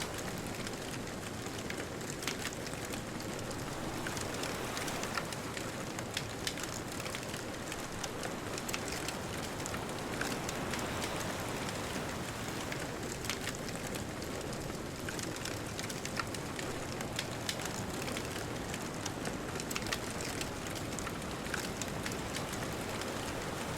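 Wood bonfire crackling, with many small sharp pops scattered irregularly, over a steady rushing wash of distant ocean surf.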